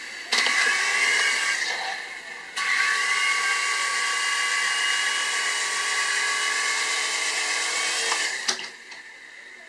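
The small electric motors and rotors of a QS9005 three-channel toy RC helicopter, running with a steady high-pitched whine. The whine dips about two seconds in, comes back, and falls away sharply near the end.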